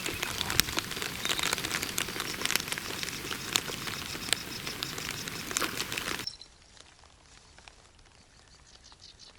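Rain pattering close to the microphone, with dense crackling ticks. It cuts off abruptly about six seconds in, leaving only a faint hiss.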